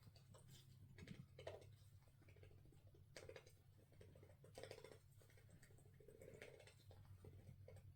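Near silence: room tone with a low steady hum and faint, scattered soft clicks and rustles.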